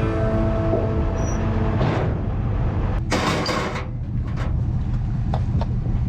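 Heavy diesel engine running steadily, with two loud hissing bursts about two and three seconds in and a few sharp clicks near the end. Music fades out over the first couple of seconds.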